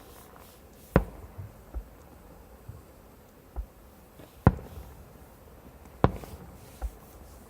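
Fireworks bursting: three sharp bangs a few seconds apart, each with a short ringing tail, with quieter dull thumps between them.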